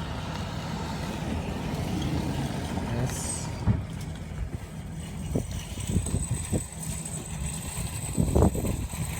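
A motor vehicle running with a steady low rumble, with several short knocks in the second half, the loudest near the end.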